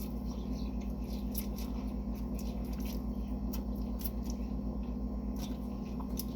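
Small scattered clicks and wet mouth sounds of someone eating with their hands, over a steady low hum.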